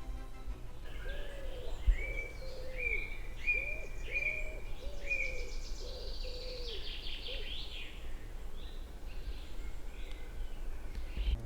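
Woodland birds singing: a run of about eight short, repeated whistled notes, with a higher trill about six seconds in, over a steady low rumble. A single thump comes about two seconds in.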